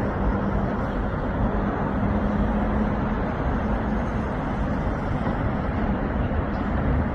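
Steady city traffic and road noise, an even rumble with a constant low hum and no separate events standing out.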